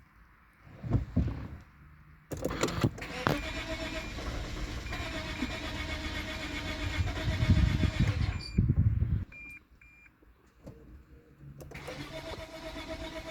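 Lexus IS250's 2.5-litre V6 being cranked by its starter for about seven seconds without running, a sign of the no-start fault. The cranking stops, a couple of short beeps sound, and cranking starts again near the end.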